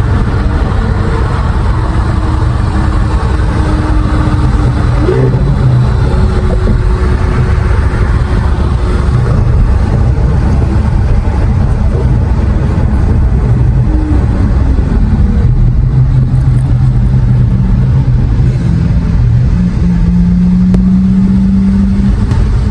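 Lamborghini Aventador SVJ's V12 engine and exhaust running under way with a steady, deep note. The note rises about 19 seconds in and holds higher to the end.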